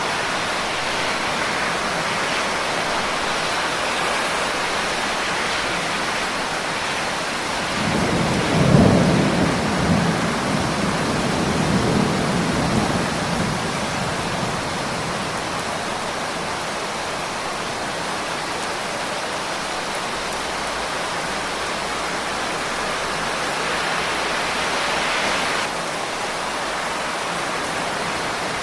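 Steady rain falling in an even hiss. About eight seconds in, a low rumble of thunder rises and rolls on for several seconds before fading back into the rain.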